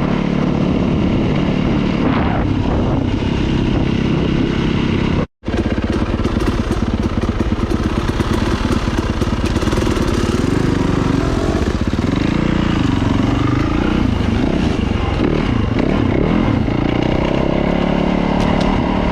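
Dirt bike engine running under load on a trail ride, its pitch rising and falling as the throttle is worked. The sound drops out completely for a moment about five seconds in.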